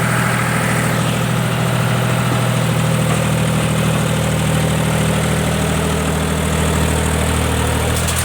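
Heavy diesel engine of a backhoe loader or tractor running at a steady speed, a low even drone with no change in pitch.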